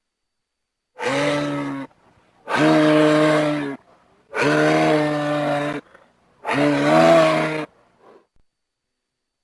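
An animal calling four times, each call a drawn-out, steady-pitched cry of about a second, with short silences between.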